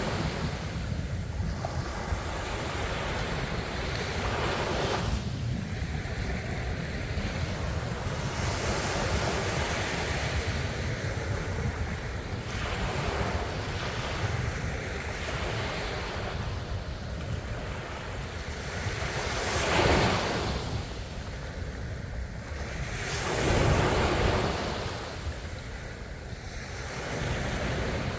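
Ocean waves breaking and washing on the shore, a continuous surf noise that swells as waves break, most loudly about twenty seconds in and again a few seconds later, with wind rumbling on the microphone.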